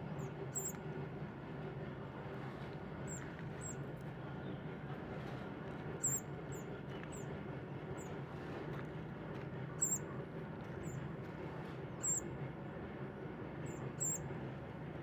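Short, high bird chirps, singly and in quick pairs every second or two, over a steady low hum.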